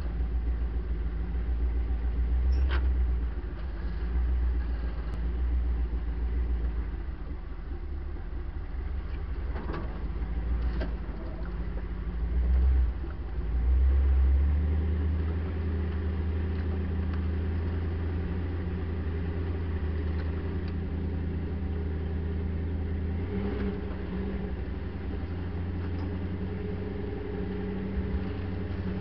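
Land Rover Series 2a engine running as the truck drives a rough dirt track, the revs swelling a couple of times before settling into a steadier drone in the second half, with a few brief knocks and rattles from the body.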